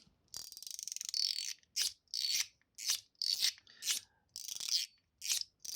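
YOLO Studio Huang Cai mechanical fidget slider, with a PEI middle plate, being pushed back and forth over and over: about a dozen short, crispy scraping strokes, each a fraction of a second long.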